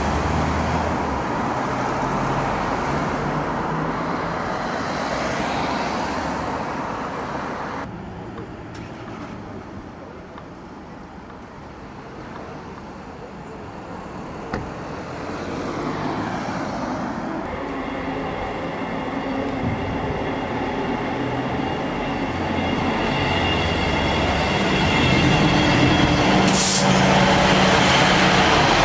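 A diesel multiple unit running into the platform, a rising whine of high tones building and growing louder over the last ten seconds, with a brief sharp sound near the end. Before it comes steady street and traffic noise, then a quieter stretch.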